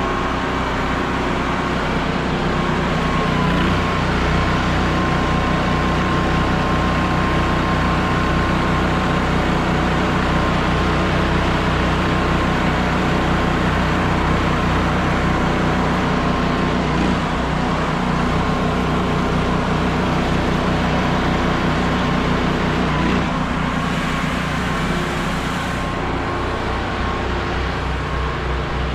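Small engine of a pressure-washing rig running steadily, its pitch shifting slightly about three seconds in and again near the end.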